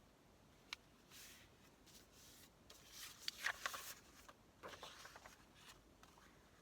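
Paper pages being folded in half and creased by hand: soft rustling and crinkling with a few sharp crackles, loudest about three to four seconds in.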